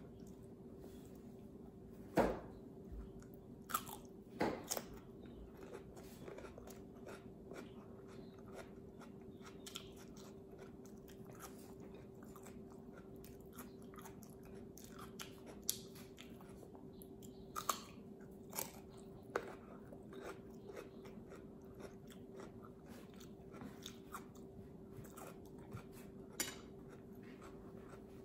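Close-up crunching bites and chewing of fresh cucumber spread with peanut butter, with the loudest crunches about two and four seconds in and again a little past halfway. A steady low hum runs underneath.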